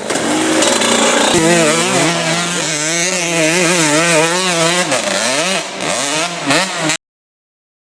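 Dirt bike engine running hard, its pitch wavering up and down quickly with the throttle, dropping and climbing again near the end; the sound cuts off abruptly about seven seconds in.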